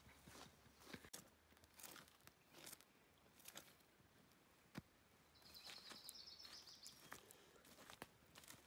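Person chewing raw peppers: faint, scattered crunches. A brief high twittering sounds a little past the middle.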